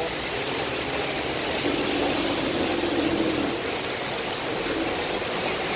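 Heavy rain pouring steadily onto paving and plants, a dense, even hiss.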